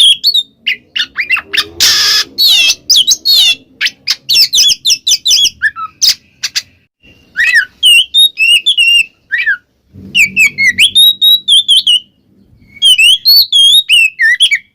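Oriental magpie-robin (kacer) singing fast, varied phrases of loud whistles and chirps, with a harsh squawk about two seconds in and short pauses about halfway and near the end.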